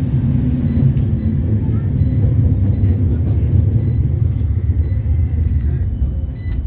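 Steady low rumble of a CAF Urbos 3 tram running along the line, heard from inside, easing slightly near the end.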